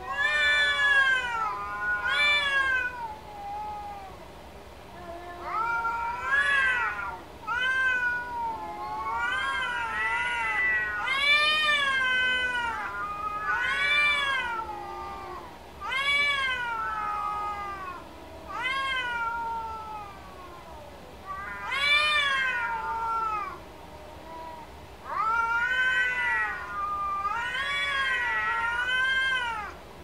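Domestic cats meowing and yowling, a long series of drawn-out calls. Each call is about a second long, rising and then falling in pitch, with short pauses between calls.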